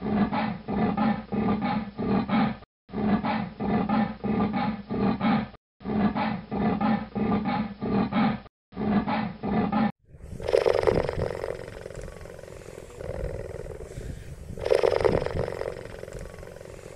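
Cheetah vocalizing: a run of rhythmic pulsed calls, about three or four a second, broken by brief silent gaps. About ten seconds in, a different recording starts, with two louder single calls about four seconds apart.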